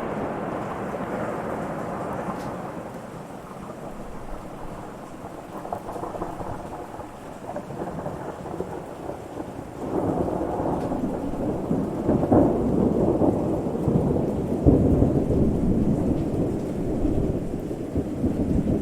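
Thunderstorm: rolling thunder rumbling over steady rain. The rumble fades over the first few seconds, then swells again about ten seconds in and peaks a few seconds later before easing off.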